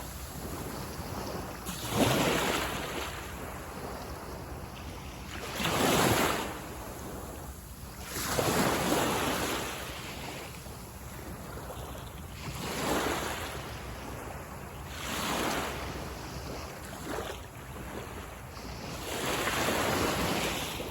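Waves breaking on a beach, one wash of surf after another every two to four seconds, with a steady low rush of sea between them.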